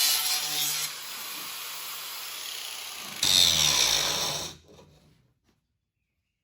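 Angle grinder working on metal, loud for the first second, lighter for a couple of seconds, then loud again about three seconds in before it winds down and stops around five seconds in.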